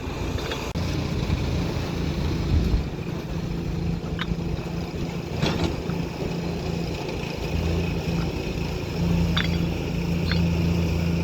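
Heavy machine's engine running steadily at a low hum, with a few sharp clanks.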